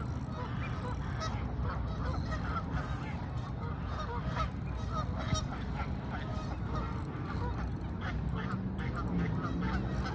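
Birds calling over and over in short, repeated notes over a steady low rumble.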